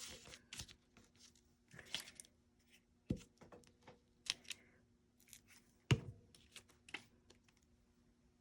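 Paper being handled on a craft desk: brief rustles and slides of paper pieces, light scattered clicks, and two sharp knocks on the desk, the louder one about six seconds in.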